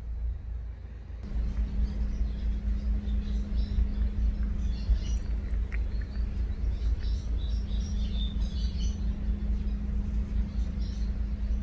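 Small birds chirping now and then over a steady low rumble and hum that starts about a second in.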